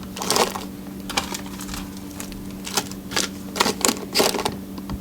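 Whole spices crackling in hot oil, with irregular sharp pops coming a few times a second.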